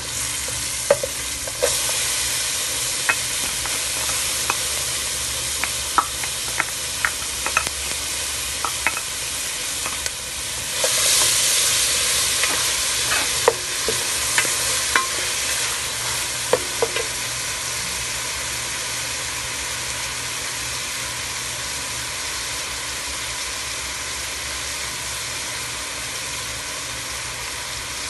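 Chopped onion and garlic sizzling in melted butter in a metal pot while a plastic spoon stirs them. Scattered clicks of the spoon knocking and scraping the pot come through the first half. The sizzle swells briefly about eleven seconds in, and after about seventeen seconds the clicks stop and it runs as an even hiss.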